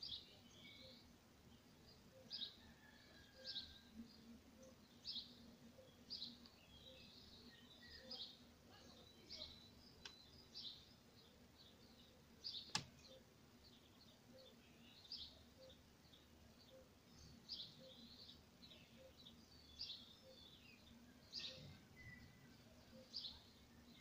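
Faint bird chirping in a garden: short, high chirps repeated about once a second, with softer calls between them over a faint steady hum. A single sharp click comes about halfway through.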